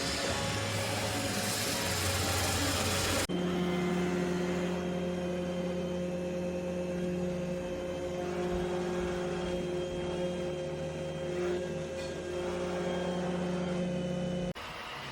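Steady motor hum with a fixed pitch, set between abrupt cuts. A noisier stretch comes first, and the hum stops sharply near the end.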